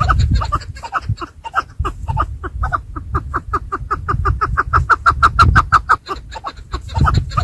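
Chukar partridges calling: a rapid run of short repeated clucking notes that comes faster in the middle of the stretch, over a low rumble.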